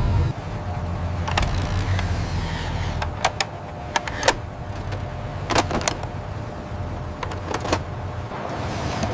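A low, steady engine-like rumble with a string of sharp clicks and clunks every second or two, and a short hiss about two seconds in.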